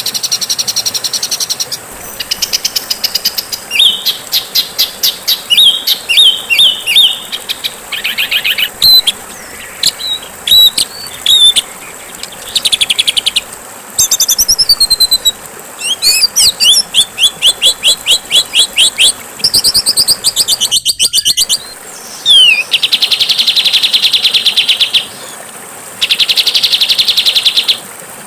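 Songbirds singing a rapid, varied medley of chattering note runs, slurred whistles and trills, with two long buzzy trills near the end, over a faint steady hiss.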